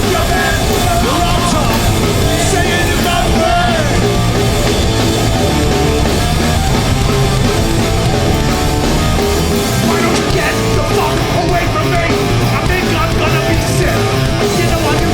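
Hardcore punk band playing live, loud and dense without a break: guitars, bass and drums through a festival PA.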